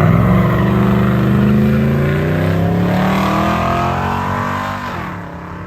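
Drag-racing vehicles launching and accelerating down the strip, their engines rising steadily in pitch for about four seconds, then dropping sharply and fading as they pull away.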